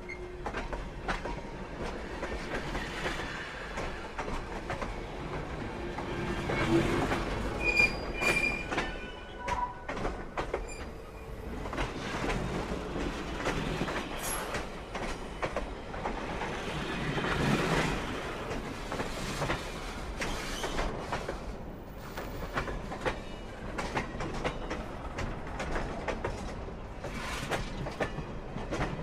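Dubbed-on train sound: a train running on rails with a continuous clickety-clack of wheels over rail joints, and short, high wheel squeals about eight seconds in.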